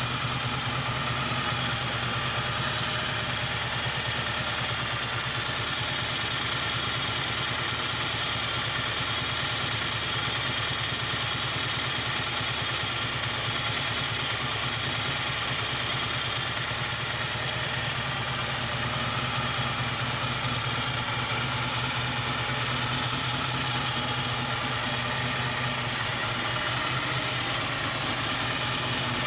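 Supercharged Chevrolet 350 small-block V8 idling steadily.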